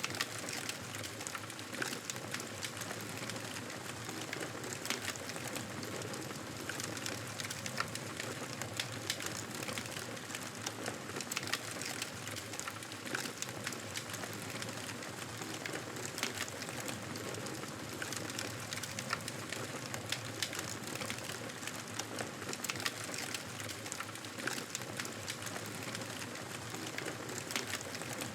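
Wood fire crackling steadily: a continuous hiss scattered with frequent short pops and snaps.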